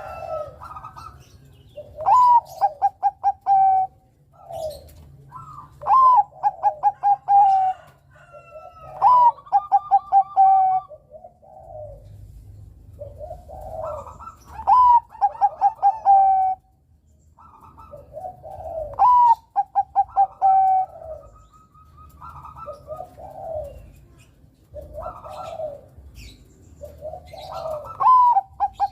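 Zebra dove (perkutut, Bangkok type) singing its cooing song. About six loud phrases come a few seconds apart, each a rising note followed by a quick stuttering run of short coos, with softer cooing between them.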